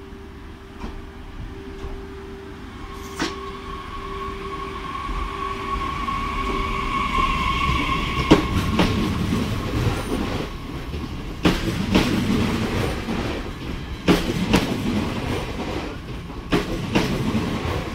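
A Bombardier AGC regional train pulls in alongside the platform, growing louder. A steady hum and then a high whine come through the first half. From about halfway, irregular sharp clacks of the wheels on the rails sound as the cars pass.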